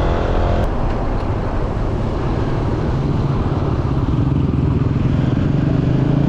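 Steady engine and road noise of a moving car, heard from inside the cabin, with a single short click a little over half a second in.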